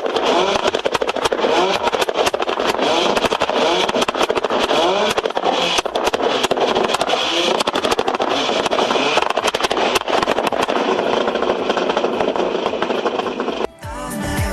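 1967 Chevrolet Chevelle's engine running loud and rough, with a crackly exhaust and repeated revs rising in pitch. It cuts off abruptly near the end.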